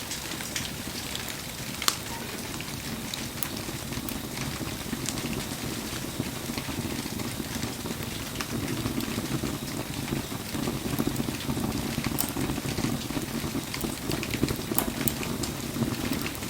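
Wood fire burning in the rain: scattered crackles and pops from the burning wood, one sharp pop about two seconds in, over steady rain patter. A low rushing sound grows louder past the halfway point.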